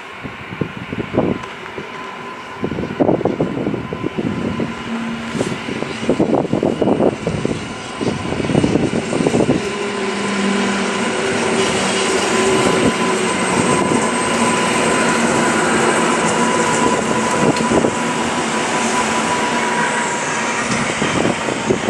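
Red-and-white electric multiple-unit train passing through the station, growing louder as it approaches about a few seconds in and staying loud as it runs by. The wheels rumble on the rails and a steady whine runs over the top.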